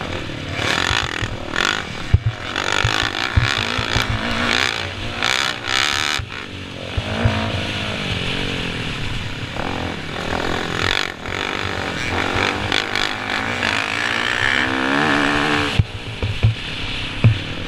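Motocross bike engines revving up and down, with a rising engine note near the end.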